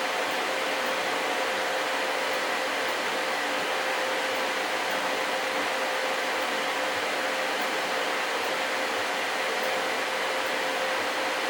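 Qidi X-Plus 3 3D printer running mid-print: a steady whir of its cooling fans with a constant hum.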